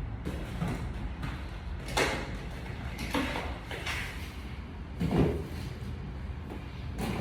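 Pressure washer equipment being handled during setup: about five separate dull knocks and clunks over a steady low rumble.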